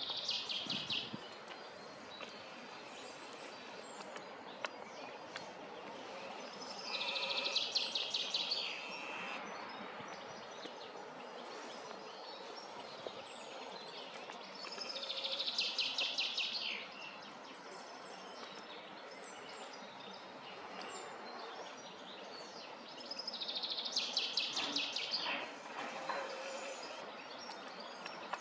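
A songbird singing a short, fast trilled song four times, about every eight seconds, each phrase lasting around two seconds, over a steady outdoor background hiss.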